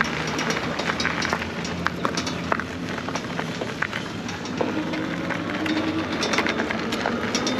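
Electric bike riding over a rough dirt trail: steady tyre and rolling noise with frequent sharp rattles and clicks from the bike.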